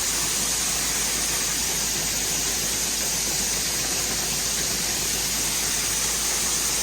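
Steady, even hiss that does not change, brightest in its upper range, with a low steady rumble under it.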